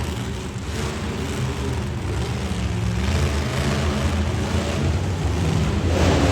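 Monster truck engine running with a low, uneven rumble that slowly grows louder, rising more sharply near the end.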